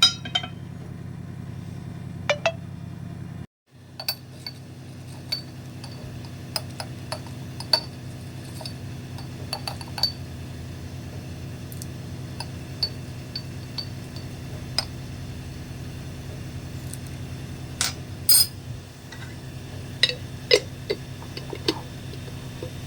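Scattered light clinks and taps of dishes or utensils being handled, over a steady low hum.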